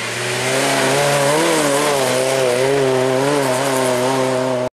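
Off-road 4x4's engine revving hard under load on a mud and dirt climb, its pitch rising and falling again and again as the throttle is worked.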